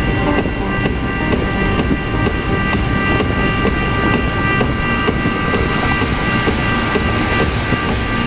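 Steady low rumble of a car driving in the rain, with rain noise and a set of steady high tones held over it.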